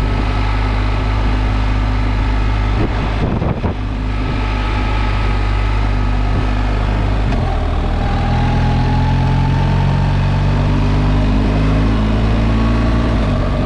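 Motorcycle engine running at a steady pitch, with a brief dip in the sound about three seconds in. From about halfway the engine pitch rises steadily as it accelerates, then drops back near the end.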